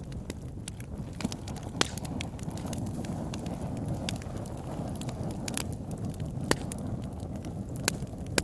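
Campfire crackling: wood popping and snapping in sharp irregular cracks over a steady low rush of the flames, with a few louder pops.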